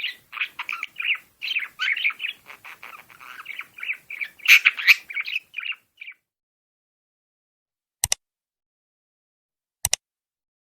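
Pet birds chirping and squawking rapidly for about six seconds, then stopping abruptly; two short sharp clicks follow near the end.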